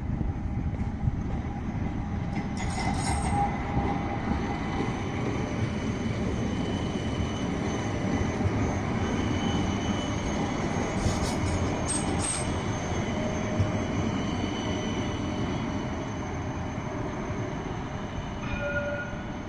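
A light rail tram running past on its tracks: a steady rumble of wheels on rail with thin squealing tones. It carries short high-pitched marks a few seconds in and again around the middle, then eases off toward the end.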